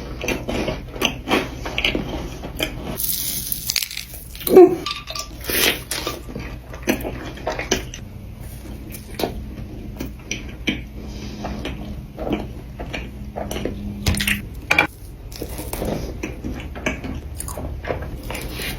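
Close-miked eating of Crumbl cookies: a run of bites and crunches mixed with clinks and taps of tableware, the sharpest and loudest about four and a half seconds in.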